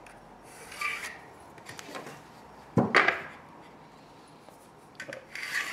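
Pencil scratching lines onto a plastered wall along a spirit level, in short rubbing strokes near the start and near the end. About three seconds in there is a single sharp knock, the loudest sound, as the level is moved and set against the wall.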